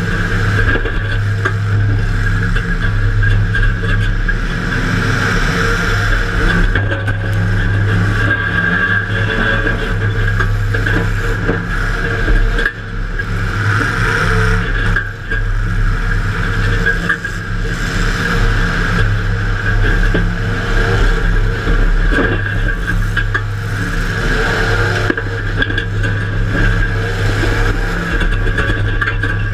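A demolition derby car's engine running hard, heard from inside the car, with a few brief knocks and scrapes of metal.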